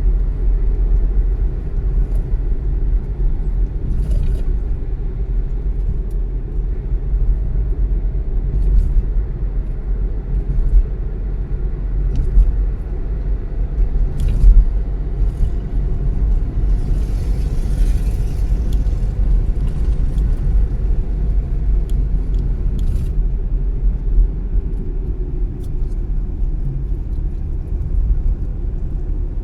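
Car being driven, a steady low rumble of engine and tyres on the road. A faint hiss swells and fades about two-thirds of the way through.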